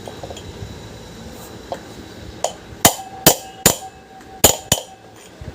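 Hammer blows on a pipe set over a ceiling fan bearing, driving the bearing down into place. A couple of light taps, then about five sharp metallic strikes in the second half, with a short ringing tone after them.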